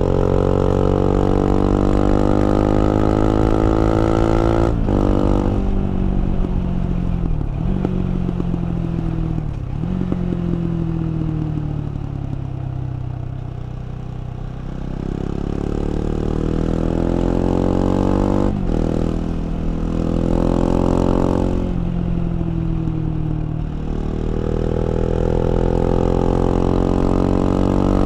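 KTM 690 Duke's LC4 single-cylinder engine under way: it pulls up through the revs with a sharp break at each upshift, drops in steps while slowing down, then accelerates again.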